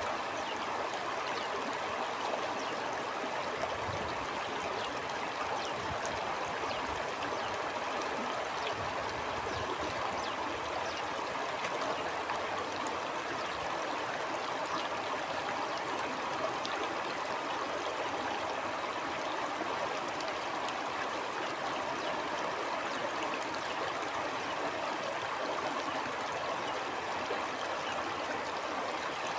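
Stream water flowing steadily, a continuous even rush with no breaks.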